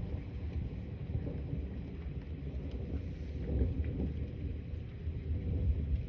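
Low rumble of thunder rolling on without a break, swelling and fading unevenly.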